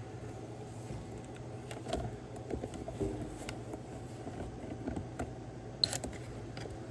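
Scattered light clicks and knocks of hand tools and metal parts being handled while intake piping is refitted on a 6.7 L Power Stroke diesel, with a sharper click near the end over a steady low hum.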